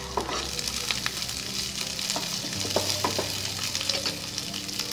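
Chopped onions, garlic and green chillies sizzling in hot oil in a nonstick kadai, stirred with a wooden spatula that knocks against the pan a few times.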